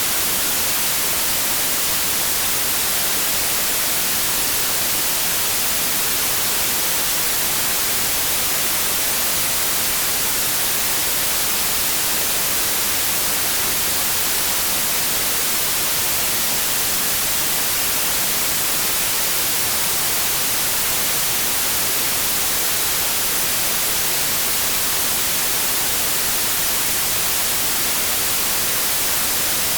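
Steady white noise: an even, unbroken hiss like static.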